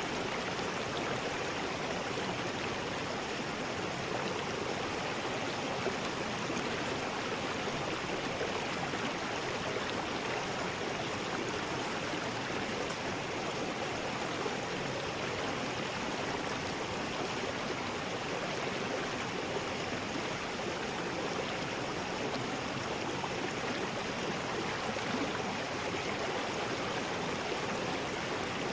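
River rapids: fast water rushing over rocks in a steady, unbroken roar.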